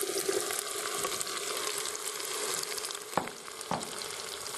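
Chopped onion and garlic sizzling as they fry in hot oil with butternut squash in the non-stick jug of a sauté-and-soup maker, a steady hiss. Two light knocks come about three seconds in.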